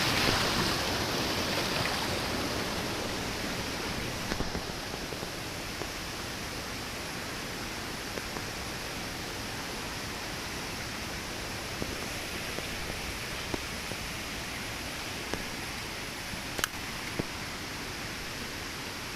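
Flowing water rushing steadily, louder at first and settling lower over the first few seconds, with a few sharp clicks near the start and the end.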